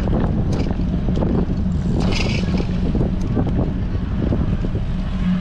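Wind buffeting an action camera's microphone on a moving bicycle: a loud, steady low rumble with a faint hum underneath, and a brief hiss about two seconds in.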